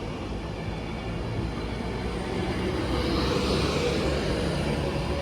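Avanti West Coast Class 390 Pendolino electric train running out of the station, a steady rumble with a faint whine that grows louder about halfway through.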